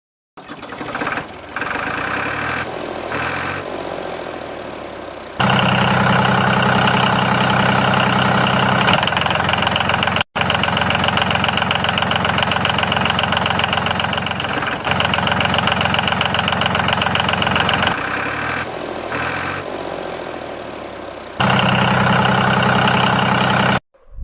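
A motor running with a fast, even chugging pulse, its loudness jumping abruptly between edited stretches and dropping out briefly about ten seconds in.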